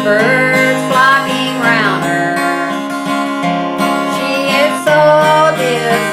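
Country gospel music: a strummed acoustic guitar, with a lead melody above it that slides into and between held notes.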